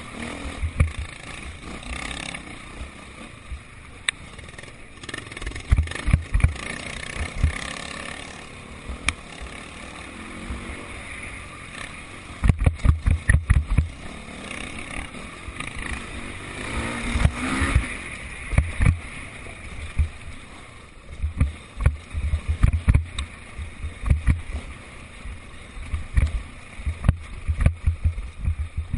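Motocross bikes' engines running at a distance, one rising and then falling in pitch a little past halfway through, with clusters of loud low thumps on the microphone.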